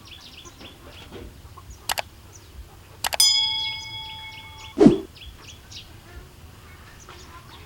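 Birds chirping in the background. About three seconds in there is a sharp click, then a bell-like ding that rings and fades over about a second and a half. It is followed by a short swoosh that falls quickly in pitch.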